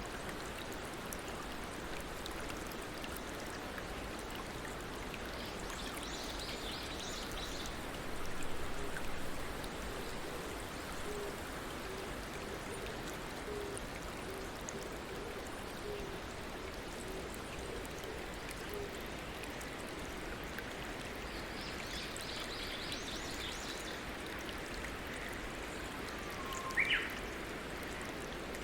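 Water flowing steadily over stones like a small stream, with birds chirping twice in the background and a short, sharp call near the end.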